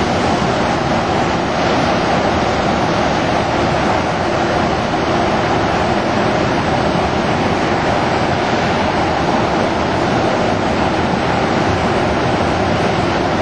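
Loud, steady rush of floodwater pouring out of a dam into the river below.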